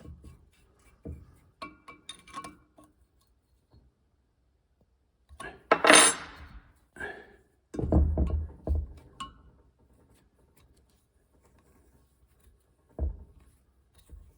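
Metal tools and parts clinking and knocking during hands-on engine work. There is a loud rattle about six seconds in, then a few heavy thumps.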